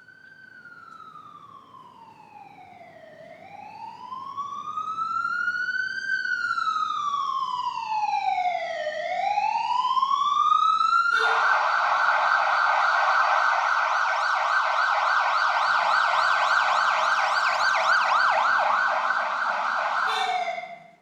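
Ambulance electronic siren in a slow wail, rising and falling about every six seconds and growing louder. About halfway through it switches abruptly to a rapid yelp, then cuts off sharply near the end.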